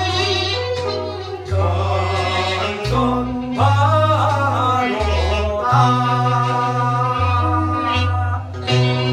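Korean trot song: a voice holding notes with wide vibrato over an accompaniment with a steady bass line.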